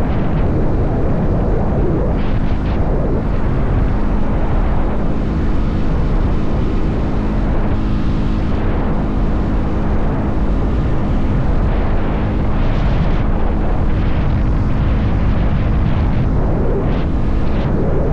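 Motorcycle engine running at a steady cruising speed, a constant even hum, under heavy wind rumble on the microphone.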